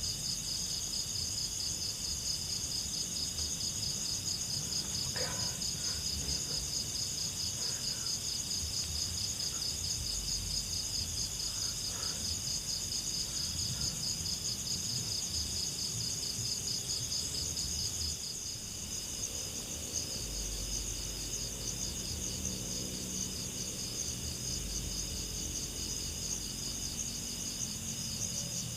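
Night chorus of crickets and other insects, a steady high trilling in two pitches. A few faint knocks and a low rumble sit underneath.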